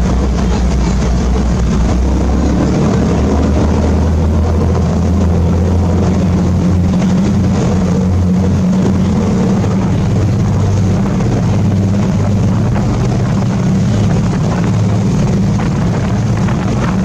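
Sightseeing boat's engine running steadily under way, a low drone under a constant rushing noise.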